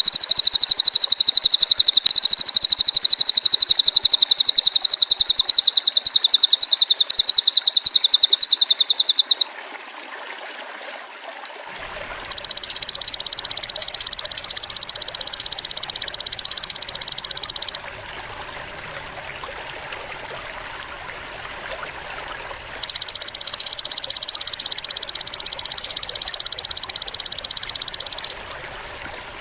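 Masteran recording of a cililin bird and a belalang emas (golden grasshopper) calling. A loud, very high, fast-pulsing trill runs for about nine seconds. Then come two long, steady, high buzzing phrases of about five seconds each, with a faint stream-like hiss in the gaps.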